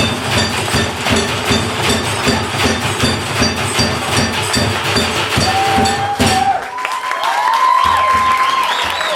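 Live percussion ensemble playing a fast, even beat of ringing metallic strikes, about four a second, that cuts off sharply about six and a half seconds in. An audience then cheers and whistles.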